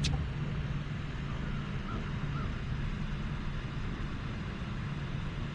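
A boat motor running with a steady low hum, and a sharp click right at the start.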